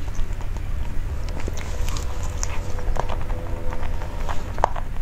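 Close-miked chewing of a soft cream cake: scattered wet mouth clicks and smacks over a steady low hum.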